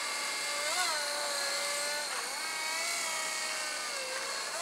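Radio-controlled model helicopter in flight: a steady high whine from its motor and rotors, with the pitch rising briefly about a second in and dipping twice as the throttle changes.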